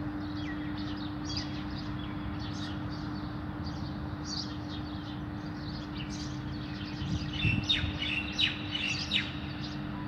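Small birds chirping repeatedly, with a quick run of louder, sharp calls about seven to nine seconds in, over a steady low hum.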